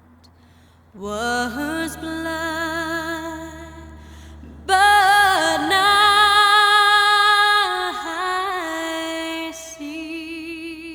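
Background music: a woman's voice singing long held notes with vibrato over a low sustained drone. The singing swells loudest at about the middle.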